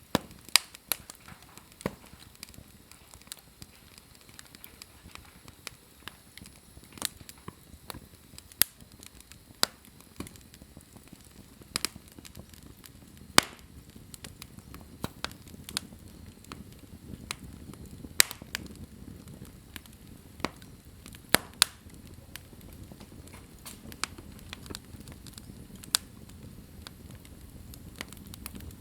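Wood fire burning in a fireplace, with sharp, irregular crackles and pops about once a second over a soft hiss of flames.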